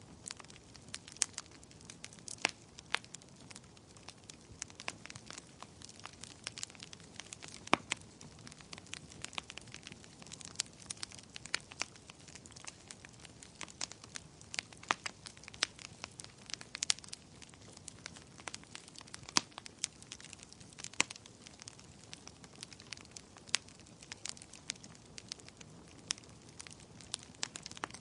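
Fire crackling in a fireplace: irregular sharp pops and snaps, some louder than others, over a soft steady rush of the flames.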